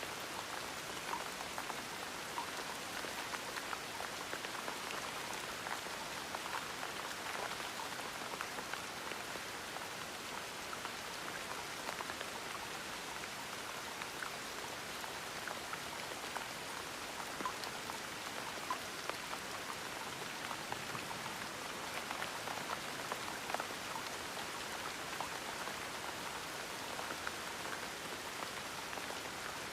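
Steady gentle rain falling, with a patter of individual drops landing on a surface.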